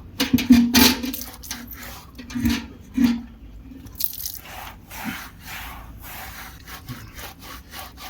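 Hands scrubbing shampoo into a wet dog's thick coat: a quick run of rubbing strokes, with a few louder bumps in the first three seconds.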